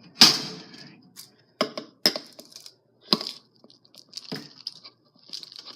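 Pet food container being opened and handled: a loud sharp crack about a quarter-second in, followed by several shorter cracks and rustles.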